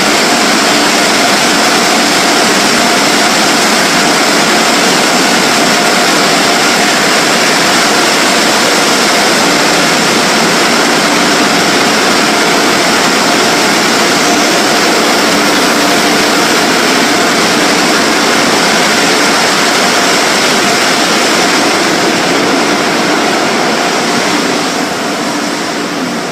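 Automatic car wash air dryer blowers running with a loud, steady rush of air, easing off a little near the end.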